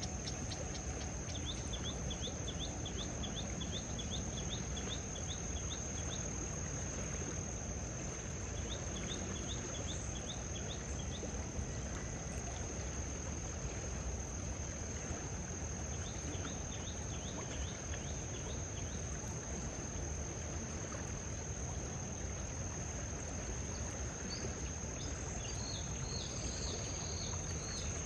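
Outdoor ambience of insects: a continuous high-pitched insect drone, with runs of short rapid chirps lasting a few seconds that come and go several times, over a steady low background rumble.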